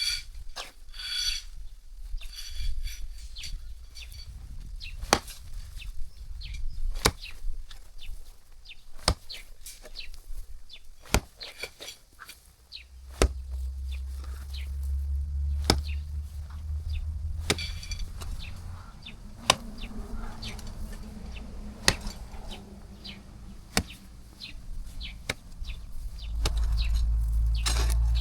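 Jembe (hoe) blade chopping into the ground, a sharp strike about every two seconds.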